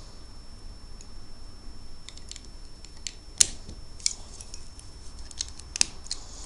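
Small plastic Lego pieces clicking and clattering as they are handled and fitted together, a scatter of light ticks from about two seconds in with two sharper clicks.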